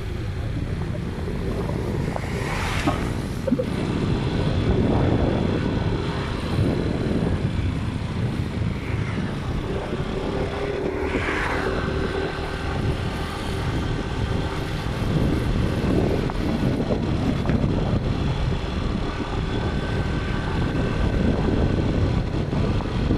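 A vehicle's engine and road noise running steadily while on the move, with two brief whooshes about three and eleven seconds in.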